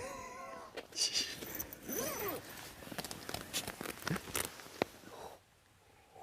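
Dog whining: a few high, wavering whimpers that rise and fall in pitch, with light rustling and clicks in between.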